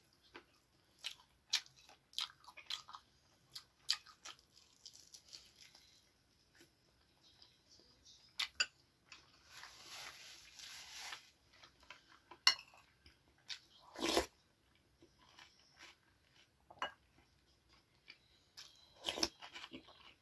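Close-miked eating: chewing with many small crunches and smacking clicks. A paper napkin rustles for about two seconds midway through, and there is a single short knock a few seconds later.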